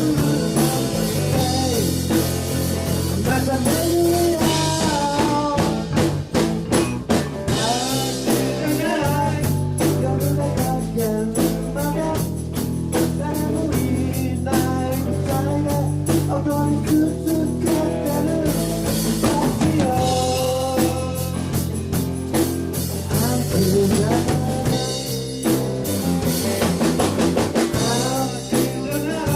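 Rock band playing live: a drum kit keeping a steady beat under bass, guitar and a sung vocal line.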